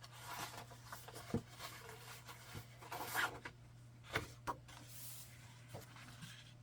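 Papers and craft materials being handled and sorted through: intermittent rustling with a few light taps, over a faint steady hum.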